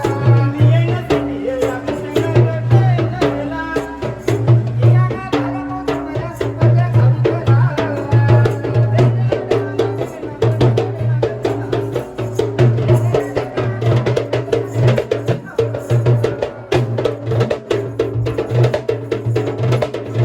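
Sri Lankan low-country ritual drumming for a Garā yakuma dance: fast, dense hand-drum strokes under a stepped melody line, with a steady low drone throughout.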